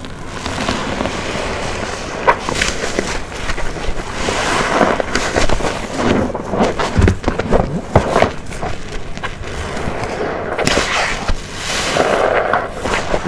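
Black waffle car wash sponge soaked in detergent being squeezed again and again, a wet squelch with dense crackling and popping of the foam.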